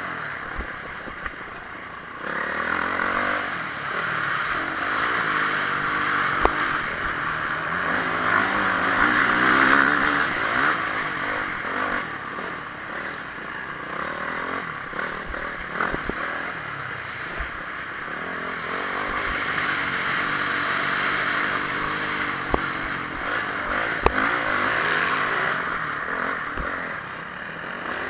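Honda CRF450R motocross bike's four-stroke single-cylinder engine racing, its revs rising and falling as the throttle opens and shuts, with a few sharp knocks along the way.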